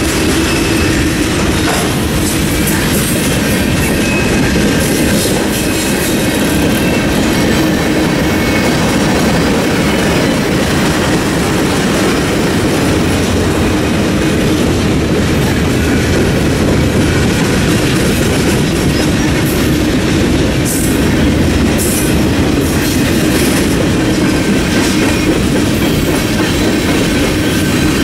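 Freight cars of a Norfolk Southern train rolling steadily past close by: a continuous rumble of steel wheels on rail with clickety-clack over the rail joints and a thin wheel squeal at times. A few sharp clacks come about three quarters of the way through.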